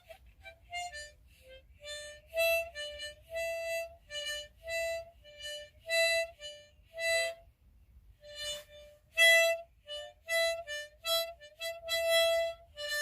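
Harmonica music: a melody of short separate notes, mostly rocking between two neighbouring pitches, with a brief break a little past the middle.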